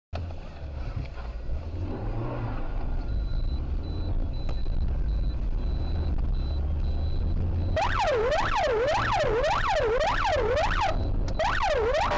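A low, steady rumble of a vehicle on the road, with a faint, high, evenly repeated beep a few seconds in. About eight seconds in, an emergency vehicle's siren starts, sweeping quickly up and down about twice a second, and drops out briefly near the end.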